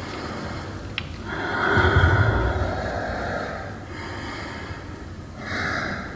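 Heavy, rushing breath sounds in swells: a long loud one with a low rumble about two seconds in and a shorter one near the end, with a sharp click about a second in.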